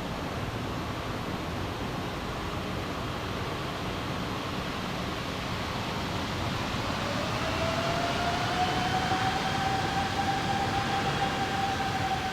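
Airbus A330-300 jet engines running with a steady rush of noise. About seven seconds in, an engine whine rises and then holds, as the engines spool up and grow louder.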